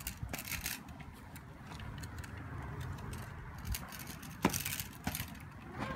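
Micro Scooter Speed+ rattling with irregular light clicks and knocks, the sharpest about four and a half and five seconds in. The rattle comes from free play in the scooter's blue button jiggling around, not from a loose nut.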